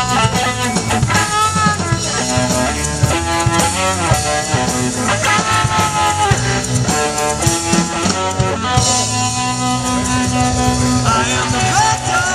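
Live blues-rock band playing an instrumental passage: electric lead guitar playing notes with bends over bass and drum kit.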